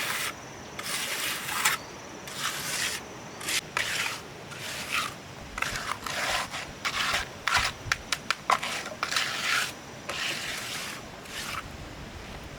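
A hand tool scraping a rough surface in about ten separate strokes, each under a second, with a quick run of sharp clicks about two-thirds of the way through.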